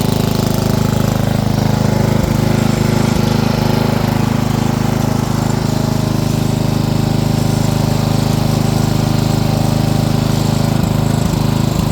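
Small engine of an off-road vehicle running steadily at an even speed.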